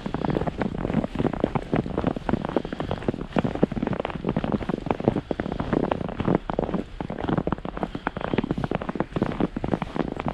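Dense, irregular crunching and crackling of snow, with no clear rhythm.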